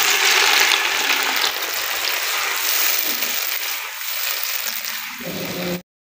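Chopped tomatoes sizzling in hot oil in a frying pan as they are tipped in and stirred with a spatula. The sizzle is loudest at first, eases off slowly as the tomatoes cool the oil, and cuts off suddenly near the end.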